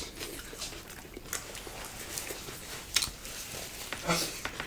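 Close-up chewing and wet mouth clicks of people eating boiled chicken salad, with a sharper click about three seconds in and a brief hum just after four seconds.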